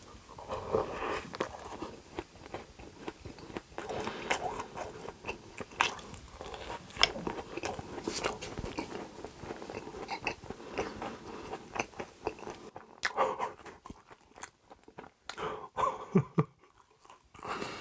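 Close-up chewing of a donut with a crunchy crumb coating: a bite, then dense crisp crunching and mouth sounds. The crunching thins out to softer chewing for the last few seconds.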